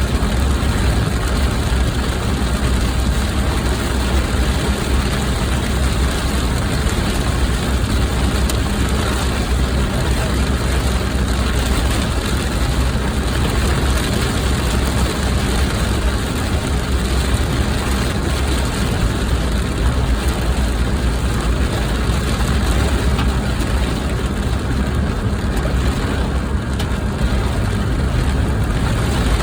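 A car driving: a steady low rumble with an even road hiss, unchanging throughout.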